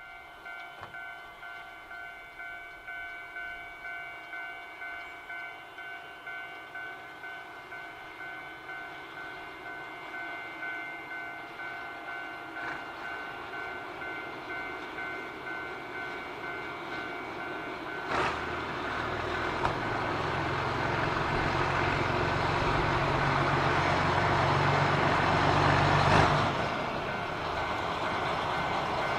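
Level-crossing warning bell ringing in steady repeated strikes, about one and a half a second. About 18 seconds in, a train's diesel locomotive engine comes in over it and grows louder until about 26 seconds in, then eases off.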